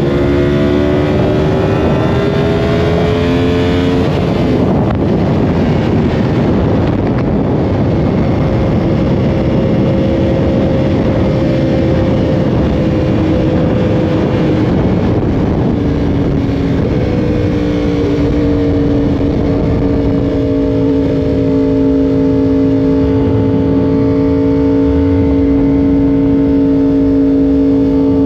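Yamaha R1 inline-four sportbike engine at speed under heavy wind rush: the revs climb for the first few seconds, then drop at a gear change about four seconds in. It then holds fairly steady revs, with another small shift in engine note about seventeen seconds in.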